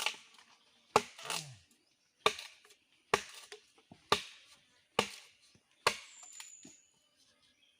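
Wood being chopped with a blade: seven sharp strikes at about one a second.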